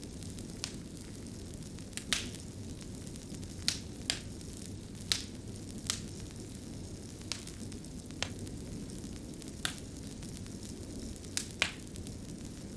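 Fire crackling: a steady low rumble of burning with sharp pops and snaps at irregular intervals, about one a second.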